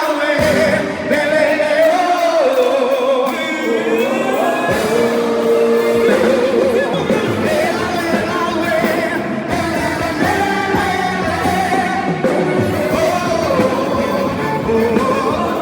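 Live regional band playing a festa junina tune, with a voice singing over it.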